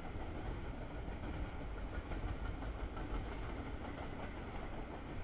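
CSX double-stack container train cars rolling past, a steady rumble of steel wheels on the rails.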